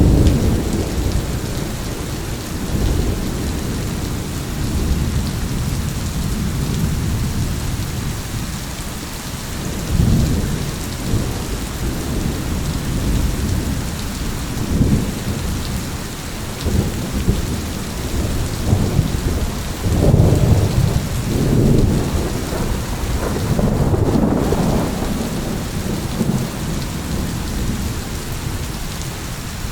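Thunderstorm: steady rain with thunder rolling and rumbling again and again. The heaviest rumbles come about a third of the way in and around two-thirds of the way through.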